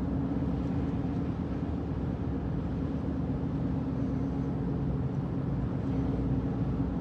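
Steady road noise inside a moving car's cabin at highway speed: engine and tyres running on a snow-covered interstate, with a constant low hum and rumble.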